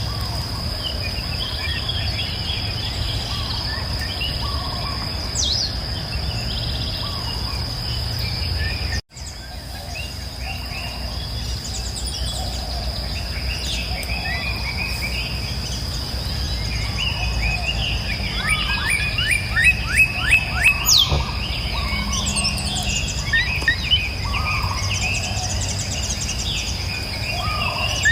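Several birds chirping and singing over a steady high insect drone and a low rush of flowing water. About two thirds of the way through, one bird gives a loud, rapid trill of repeated sweeping notes. The sound cuts out for an instant about nine seconds in.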